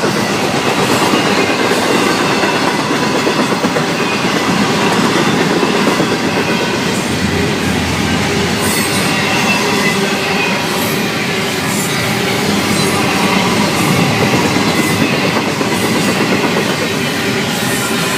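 Freight cars of a Florida East Coast Railway train rolling past close by: a steady loud rumble of wheels on rail with a clickety-clack over the joints.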